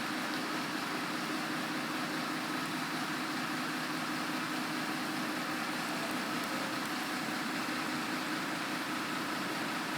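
Automatic bus washing machine running: a steady wash of noise from its brushes and water spray over a constant motor hum.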